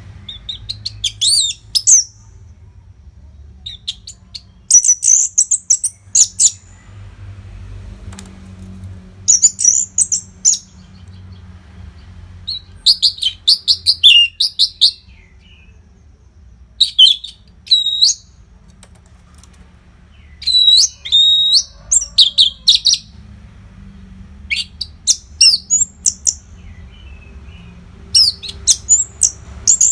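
Orange-headed thrush singing: about eight short, rapid, high phrases of quick whistled notes, coming every three to four seconds with brief pauses between them.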